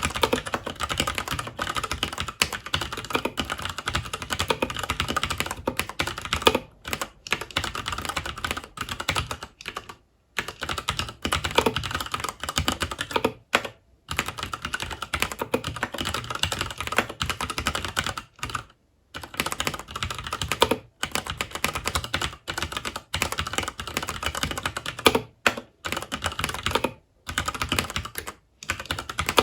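Fast continuous typing on a FILCO Majestouch 2 tenkeyless mechanical keyboard with Cherry MX Brown switches: a dense run of key clicks and clacks, broken by a few brief pauses.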